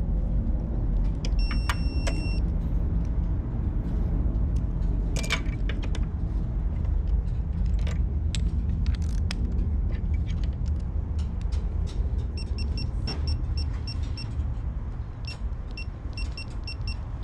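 Metallic clicks and tool clatter over a steady low rumble, with one held electronic beep about two seconds in and rapid short beeping in quick groups from about twelve seconds on.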